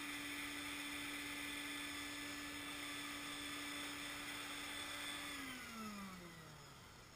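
Stinger wet/dry shop vac running with a steady whine and rush of air, then switched off about five seconds in, its motor whine falling in pitch as it spins down.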